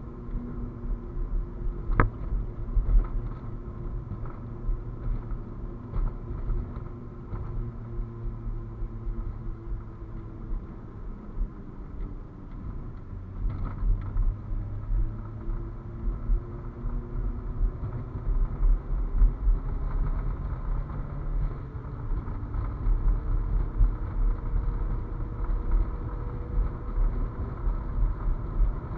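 Toyota Celica GT-Four (ST205) turbocharged four-cylinder engine under way, heard from inside the cabin, its pitch falling and rising again as the car slows and accelerates, over a heavy low rumble of road and wind noise. A few short knocks stand out.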